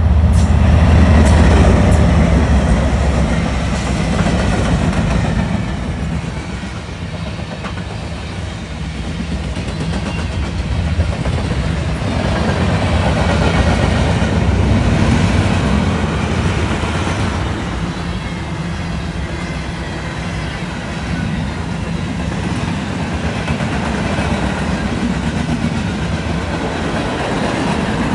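Manifest freight train passing at speed: a heavy diesel locomotive rumble in the first few seconds, then the steady rolling and clickety-clack of the freight cars' wheels on the rails, rising and easing in loudness as the cars go by.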